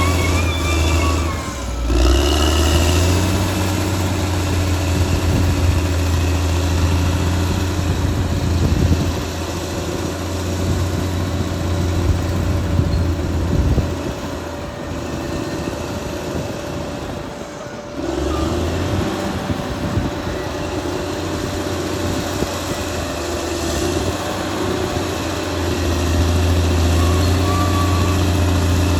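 Caterpillar D6R XL bulldozer's diesel engine running under varying load. Its note dips briefly near the start and falls quieter in the middle of the stretch before rising again.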